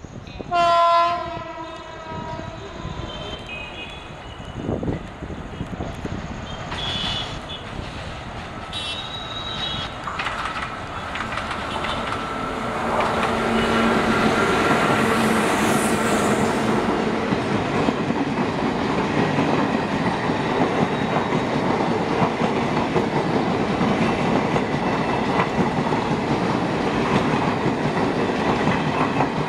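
A WAM-4 electric locomotive sounds a loud, multi-tone horn blast about a second in, with shorter horn toots around seven and nine seconds. From about thirteen seconds the locomotive and its passenger coaches pass close by, accelerating, a loud steady rumble with the clickety-clack of wheels over rail joints.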